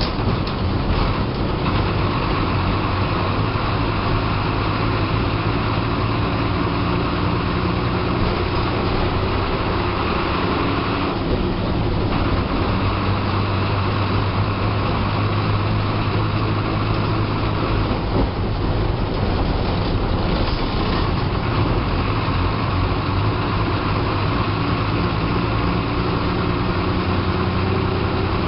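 Bus engine running as the bus drives along, heard from the driver's cabin, over steady road noise and rattling. The engine note changes around 11 seconds in and again around 19 seconds in.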